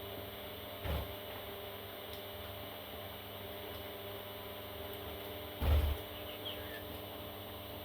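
A few faint high peeps from parrot chicks over a steady electrical hum, with two dull low thumps, about a second in and near six seconds.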